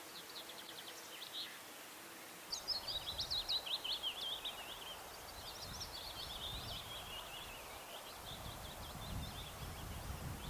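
A small songbird singing in quick, trilling phrases: a loud phrase about two and a half seconds in and another around six seconds in, with fainter chirps before and after. A low rumble sets in along with the first loud phrase.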